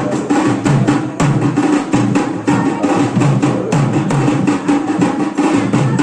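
Drums playing a fast, steady rhythm of sharp strikes.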